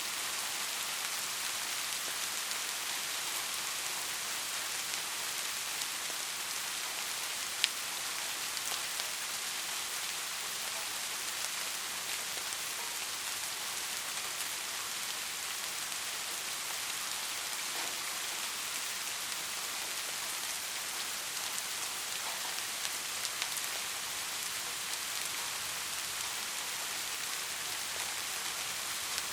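Soft rain falling steadily, a constant even patter with now and then a single louder drop, one sharper tick about seven and a half seconds in.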